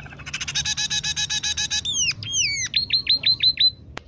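Bird calls: a fast chattering trill for about a second and a half, then a few falling whistles and a quick run of seven sharp downward chirps. A single sharp click comes near the end.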